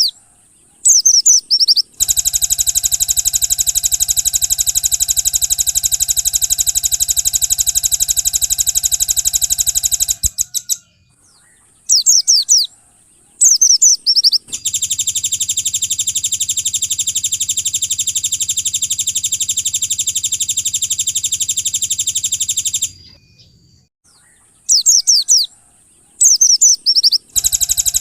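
Recorded songbird song of the kind used to train white-eyes: groups of short, high, quick chirping phrases alternating with long, very fast, even trills lasting about eight seconds each. The chirps come three times, and the trills start about two seconds in and about halfway through, with another starting near the end.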